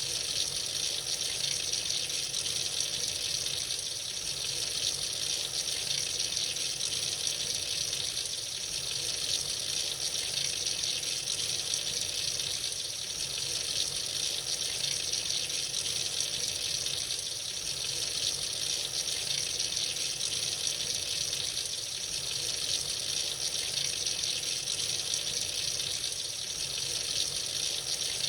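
Tap water running steadily into a sink, an even hiss of flowing water.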